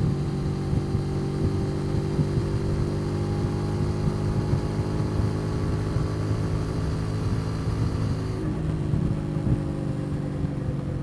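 Custom motorcycle engine running steadily at cruising speed, heard from the rider's position, with a slight dip in pitch about eight seconds in.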